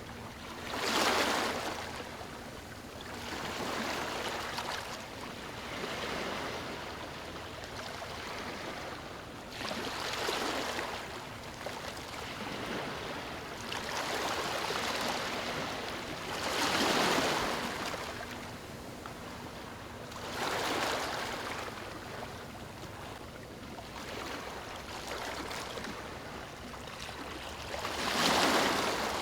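Waves breaking and washing on a beach, each surge swelling up and fading away every few seconds over a steady rush of water.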